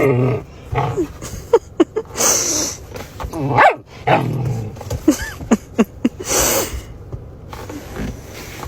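A dog giving a string of short barks and yelps, several dropping in pitch, with two breathy, huffing bursts between them.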